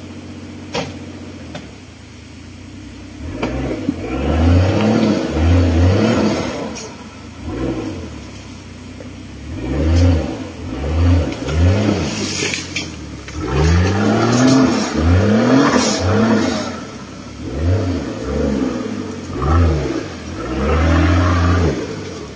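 Off-road 4x4 engine revving over and over from about three seconds in, each rev rising and then falling in pitch, with short lulls between.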